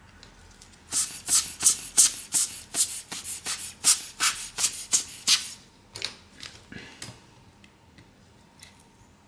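Quick scratchy rubbing strokes, about three a second for some four seconds, then a few light clicks.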